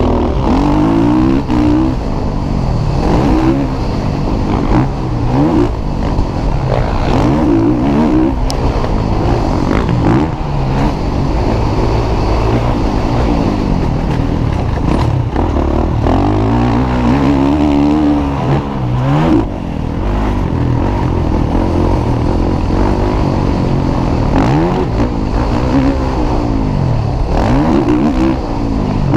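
Motocross bike engines racing on a track, revving up and falling back again and again, with several bikes heard at once.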